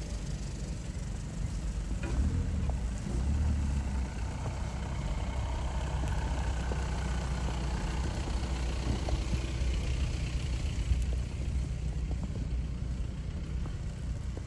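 A motor vehicle's engine running close by: a steady low rumble that grows a little stronger about two seconds in.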